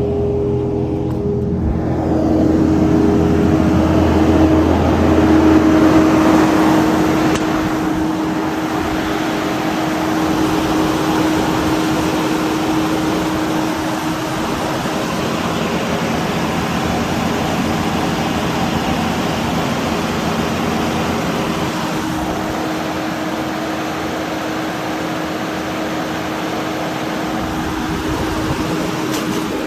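A Kubota SVL-95 skid steer's Kubota V3800 four-cylinder diesel running with a steady hum, louder for a few seconds about two seconds in and then settling.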